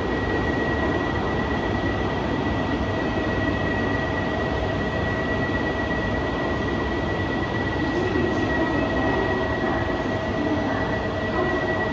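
E4 series all-double-deck Max Shinkansen train running at the platform, a steady rumble of rail noise. A steady high tone sets in at the start, and a second, lower tone joins about halfway through.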